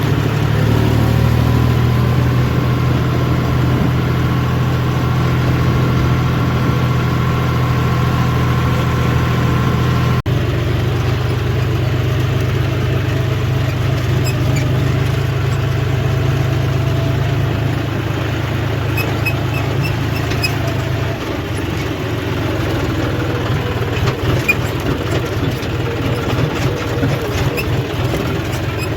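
John Deere tractor's diesel engine running steadily at a constant speed. There is a brief break about ten seconds in, and the running grows rougher and more uneven after about twenty seconds.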